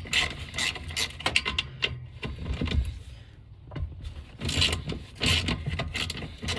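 Clusters of quick metallic clicks and rattles from a socket ratchet and hand tools working the steering column's mounting bolts, with a lull about halfway through.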